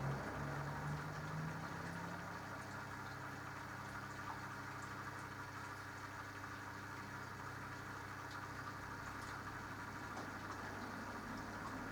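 Mini washing machine running its wash cycle: a motor drone stops about two seconds in, leaving a steady low hum with soft water sounds and faint ticks.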